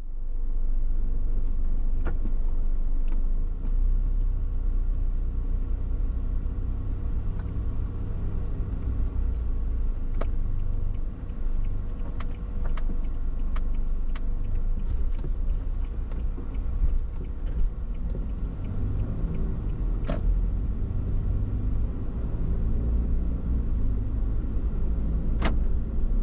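Toyota HiAce van driving along a road: a steady low road-and-engine rumble, with a faint steady hum and scattered small clicks and rattles.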